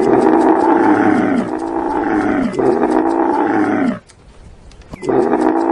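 Camel calling: three long, loud calls back to back, each sliding down in pitch, then another after a short pause about five seconds in.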